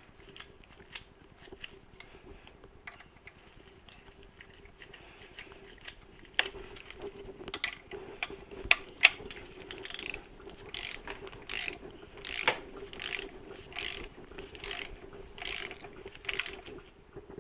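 Hand ratchet clicking as a Loctited screw is tightened down: faint scattered clicks at first, then from about halfway a regular run of sharp ratchet clicks, roughly one a second.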